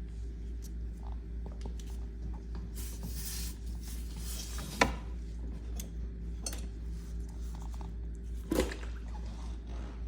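A steady low mechanical hum, with a short hiss about three seconds in and two sharp knocks, one near the middle and one near the end.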